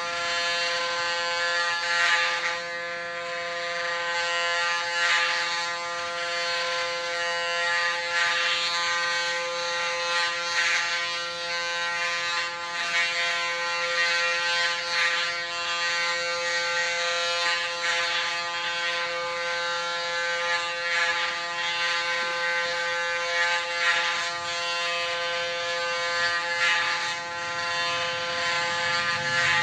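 Electric hair clipper set to 0.8 mm buzzing steadily as it shaves a head down to a buzz cut. A brighter cutting rasp swells every second or two as the blade passes through the hair.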